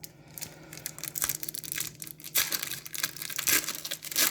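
A trading-card pack wrapper being torn open and crinkled by hand: irregular crackling and tearing, loudest in a few stretches from about two seconds in.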